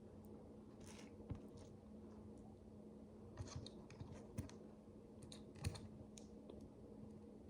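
Micro building bricks being handled and pressed together: a few faint, scattered plastic clicks and light rustling, the sharpest click a little before six seconds in, over a faint steady hum.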